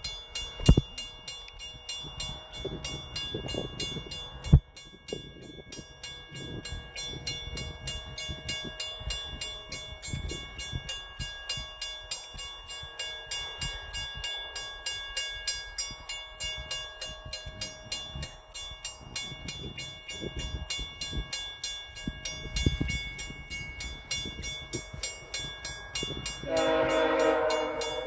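Via Rail passenger train running with a steady rhythmic clatter and faint held tones. Near the end comes a loud blast of several notes at once from its air horn, lasting about a second and a half.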